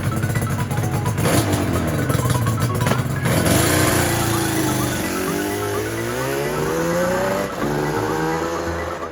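Yamaha R1-Z's two-stroke parallel-twin engine running through expansion chambers fitted with cheap aftermarket silencers, its pitch falling and rising as it revs. In the second half the pitch climbs steadily for a few seconds, then drops abruptly.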